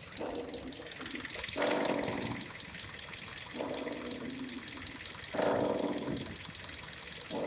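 Kia Rio 4 front suspension creaking over and over as the steering wheel is turned back and forth, about five drawn-out creaks each lasting under a second. The squeak comes from a worn ball joint, not the strut top mount.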